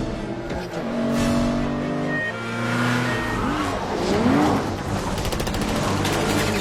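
Film car-chase sound mix: car engines running hard and tyres squealing over music. In the last second or so comes a rapid run of sharp cracks, about ten a second.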